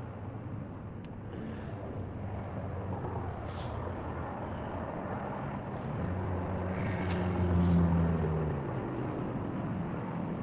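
Road traffic: a steady hum of passing vehicles, with one engine drawing close and passing about eight seconds in.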